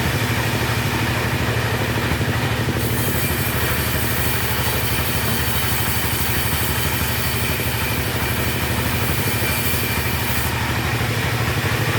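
Chainsaw engine idling steadily at an even level. A higher hiss joins it from about three seconds in and drops away near the end.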